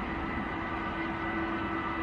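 Jet airliner engines running steadily: a broad rumble with a steady whine held through it.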